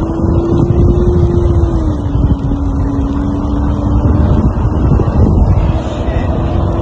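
Road and engine noise of a moving vehicle, a loud steady low rumble with a droning engine note that drops slightly in pitch about two seconds in, and wind buffeting the microphone.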